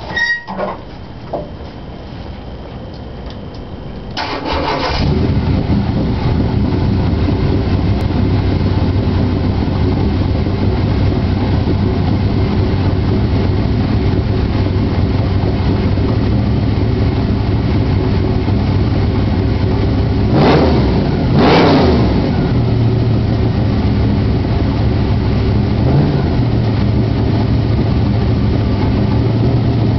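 Chevrolet 350 small-block V8 with open Flowmaster exhaust and no catalytic converters firing up about four seconds in and settling into a steady, loud idle, with two quick throttle blips a little past the middle.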